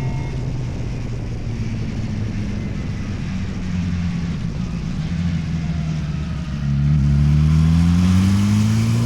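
Yamaha R6 inline-four engine running at a steady speed. About seven seconds in, the throttle opens and it gets louder, its pitch climbing as it accelerates.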